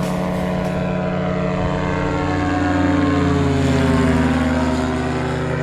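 Light propeller aircraft's engine and propeller droning in flight, the pitch slowly falling and the sound swelling a little before easing off.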